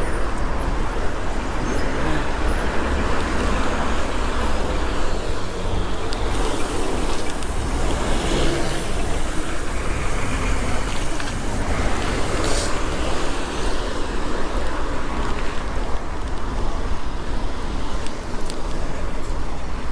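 Steady traffic noise along a city road, heard from a moving bicycle, with a constant low rumble underneath.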